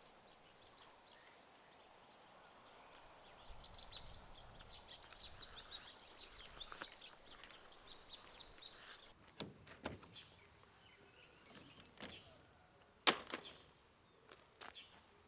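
Quiet outdoor ambience with a spell of short, high bird chirps, followed by a few sharp clicks or knocks, the loudest near the end.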